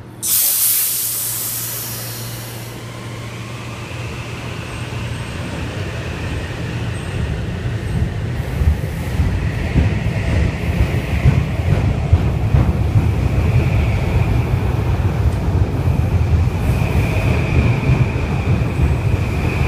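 Metro-North M8 electric multiple-unit train departing: a sudden loud hiss of air at the start, then the wheels rumble on the rails, louder and rougher as the cars roll past, with a faint high whine over the top.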